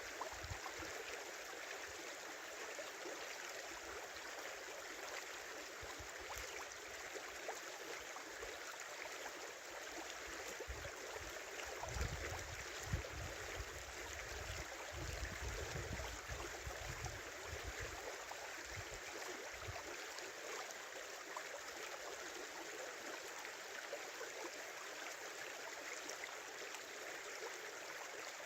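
A small winter river flowing and babbling steadily over its bed. There are a few bursts of low rumble around the middle.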